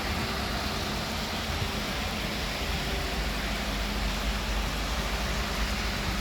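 Steady hiss of heavy rain during a thunderstorm, with a continuous low rumble underneath and no sharp thunderclap.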